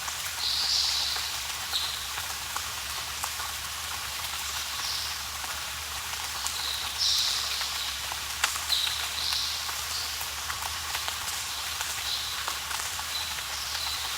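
Rainforest ambience: a steady hiss of rain on foliage with scattered drops, and short animal calls repeating every second or two.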